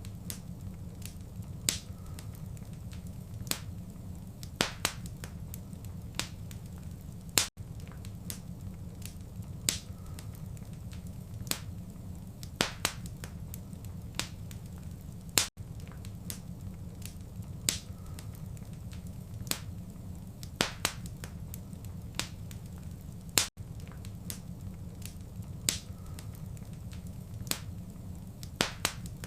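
Wood fire crackling in a fireplace: scattered sharp pops and snaps over a steady low rumble. The same stretch of crackle repeats about every eight seconds, with a brief dropout at each repeat.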